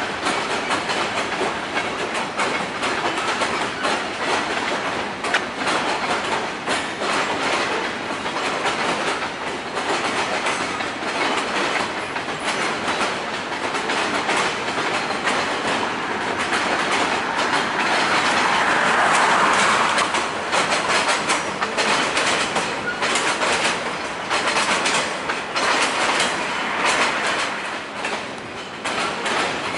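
CSX freight train of tank cars rolling past, steel wheels clicking over the rail joints in a steady clickety-clack over the rumble of the cars. The noise swells louder for a moment about two-thirds of the way through.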